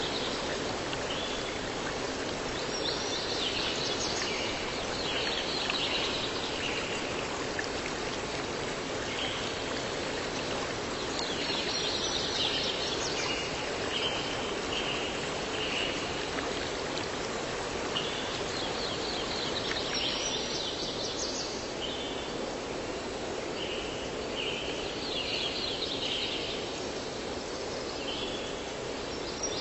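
Steady rush of a flowing stream, with birds chirping in short clusters that come back every eight seconds or so.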